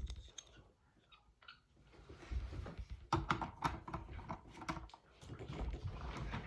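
Small hard plastic Lego pieces being handled, giving clicks and light rattling: sparse at first, then a run of sharp clicks from about three seconds in.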